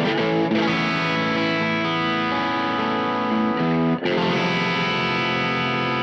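Electric guitar chords played through an LPD Pedals Sixty8 overdrive pedal, a crunchy, almost clean tone. The chords ring out sustained and are struck again about four seconds in.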